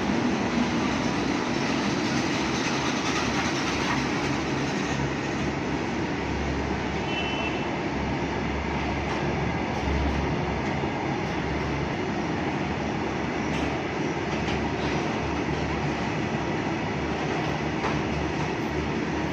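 Goods train pulled by two locomotives, moving with a steady, continuous noise of wheels and wagons on the rails.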